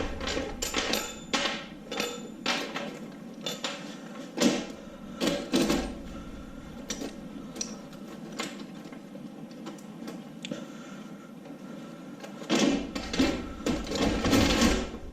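Irregular clicks, knocks and clatter of engine parts being handled during an LS engine teardown, with heavier clunks about four and a half seconds in and again near the end.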